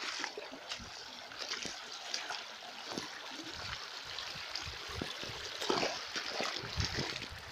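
Running water splashing and trickling steadily, like a small stream.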